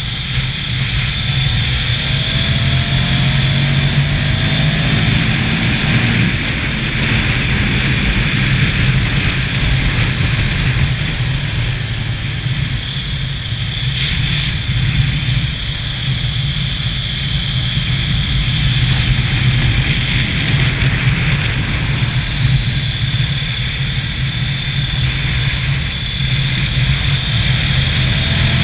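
Ducati motorcycle engine running hard at track speed, heard from on the bike with steady wind rush over the microphone. It eases off briefly a few times between stretches of steady pull.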